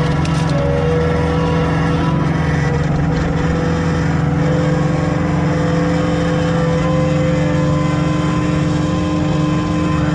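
Komatsu CK30 skid steer's diesel engine running at a steady speed, with a constant hum.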